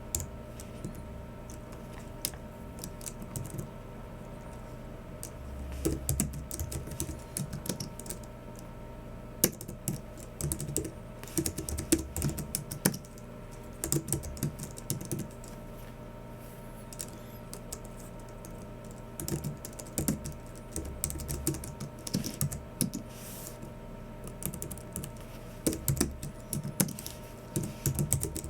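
Typing on a Logicool MX Keys Mini low-profile keyboard, in bursts of quick keystrokes with pauses of a few seconds between, over a faint steady hum.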